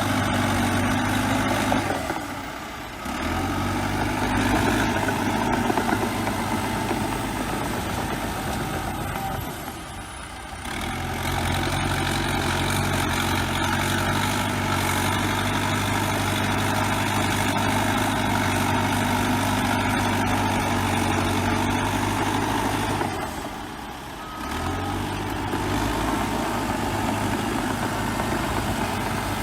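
Bulldozer diesel engine running steadily under work. The engine note drops away briefly three times, about two and a half, ten and twenty-four seconds in, then comes back.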